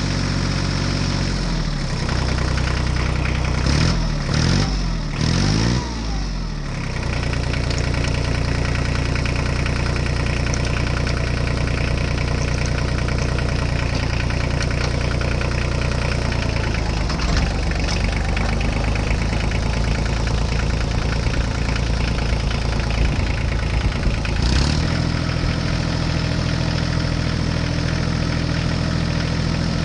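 Tractor engine running at idle; a few seconds in, its speed rises and falls several times, then it settles back into a steady idle and picks up slightly near the end.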